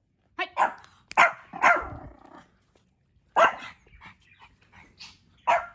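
Pomeranian barking: about six short, sharp barks, two in quick succession near the start and the rest spaced out over the following seconds.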